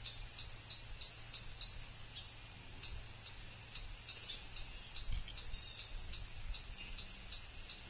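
Birds calling at a feeder: short, sharp, high chip notes repeated steadily about three a second over softer twittering, with a faint low hum behind.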